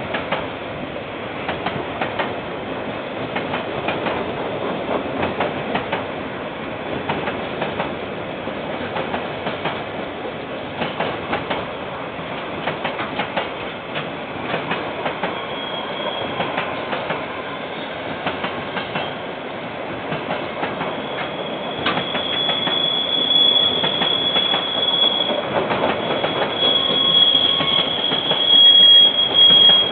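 A KiwiRail train rolling past, its wheels clicking over the rail joints. A high-pitched wheel squeal comes in about halfway and grows louder near the end.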